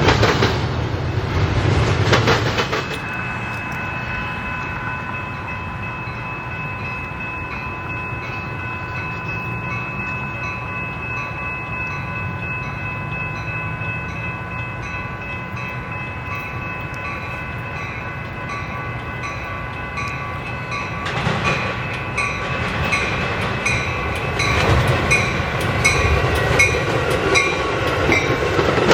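A train passing, with a steady chord of high tones held from about three seconds in until near the end. From about twenty seconds in, louder rail noise with an even, repeated clicking joins it.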